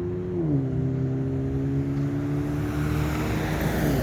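A vehicle engine runs steadily at low revs, its pitch dropping about half a second in and again near the end. A hiss of moving air or road noise grows in the second half.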